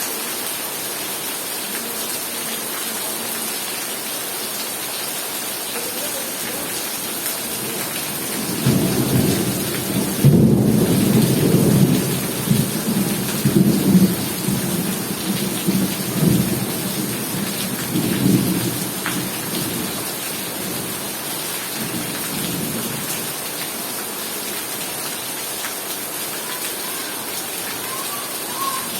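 Heavy rain falling steadily, with a roll of thunder breaking in about a third of the way through. It rumbles low in several swells for about ten seconds, then fades back under the rain.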